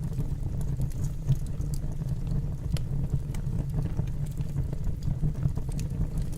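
Fire burning in a fireplace: a steady low rumble with scattered faint crackles and pops.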